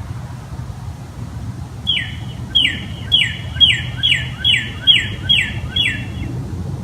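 A bird calls about eight times in quick succession, roughly two calls a second. Each call is a short note sliding downward in pitch. A steady low hum runs underneath.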